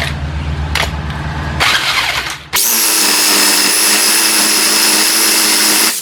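Saber saw with a metal-cutting blade switching on about two and a half seconds in and running steadily with a high whine as it cuts through a solid metal pin, cutting off suddenly at the end. Before it, a low steady hum with a few knocks.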